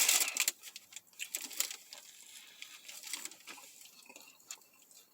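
A person chewing a mouthful of sub sandwich close to the microphone, with small irregular mouth clicks and smacks. A short rustle dies away in the first half second.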